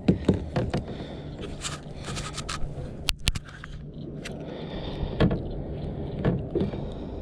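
Scraping, clicks and knocks from handling in a fishing kayak, with two sharp clicks about three seconds in and a steady low hum underneath.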